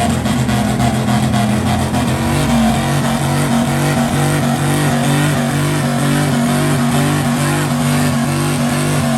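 Car or truck engine with a loud exhaust held at steady raised revs, running loud and even, with a second engine note underneath.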